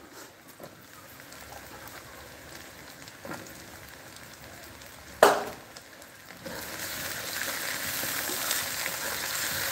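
Onions and diced potato frying in oil in an iron kadhai. A faint sizzle runs through the first part, with one sharp knock about five seconds in. From about six seconds the sizzle grows louder as the pieces are stirred with a wooden spatula.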